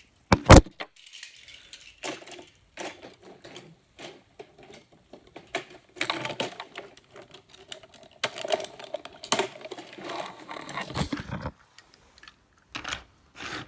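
Irregular small clicks, knocks and clatter of toy trains and track pieces being handled and pushed along, with one sharp knock about half a second in.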